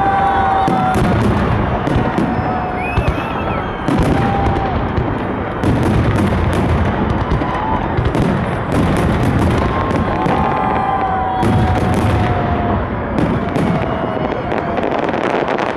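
Fireworks salute: a loud, dense, continuous barrage of bangs and crackling. Several times, held whistling tones glide slightly downward over it.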